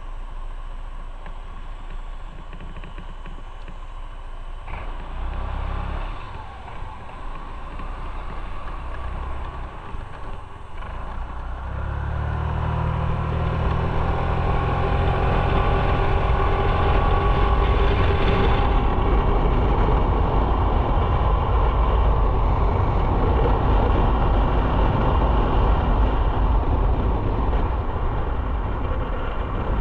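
Motorcycle engine running on the move, picking up revs and getting louder about twelve seconds in as the bike accelerates, then holding steady.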